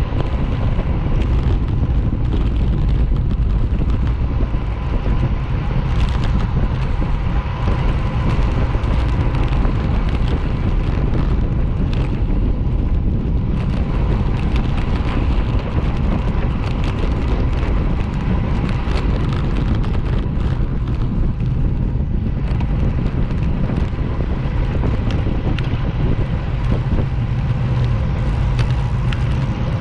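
Motorcycle running steadily at road speed, its engine and road noise mixed with wind rushing over the microphone.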